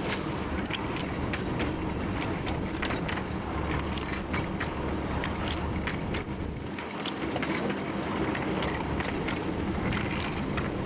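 TU7 narrow-gauge diesel locomotive running steadily under way, a constant low engine and wheel noise with many irregular clicks and rattles over the track.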